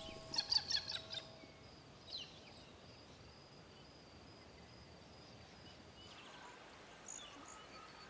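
Wild birds calling in forest ambience: a quick run of chirping calls in the first second, a single falling call about two seconds in, then only faint high calls over a low hiss.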